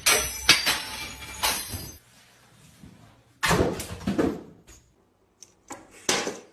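Household objects knocked over and falling, thudding and clattering in three separate bursts with short quiet gaps between them.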